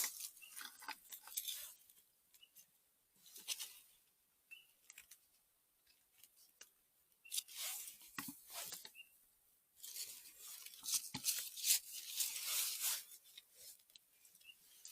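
Short spells of rustling and crackling in grass and forest leaf litter as chanterelle mushrooms are picked from the ground. The longest and loudest spell comes in the second half.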